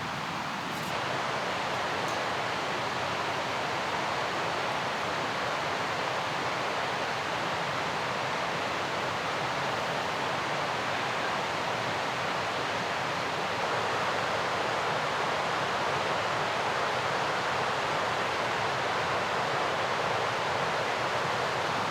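Mountain river rushing: a steady, unbroken wash of water noise.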